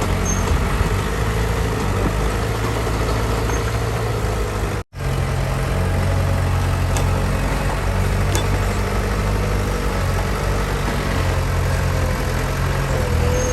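Heavy diesel engine of earthmoving equipment running steadily with a low drone. The sound drops out for an instant about five seconds in.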